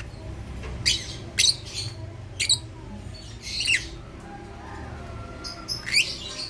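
Lovebirds giving short, high-pitched squawking calls, about five scattered across a few seconds, over a steady low hum.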